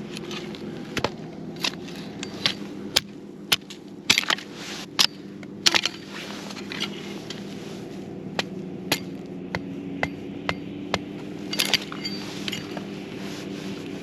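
Wood burning in a campfire, with irregular sharp cracks and pops, sometimes several in quick succession.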